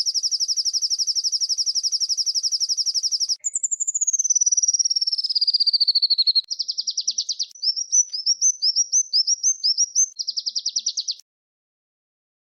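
Small songbird song in rapid high trills: a long even trill, then a trill that slides steadily down in pitch, then short quick whistled notes between two more trills, stopping about a second before the end.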